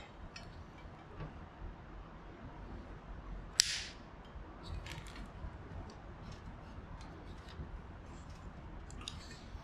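A single sharp, crisp snip about three and a half seconds in, as the end of the air-bag's plastic air line is given a fresh cut, among faint scattered handling sounds.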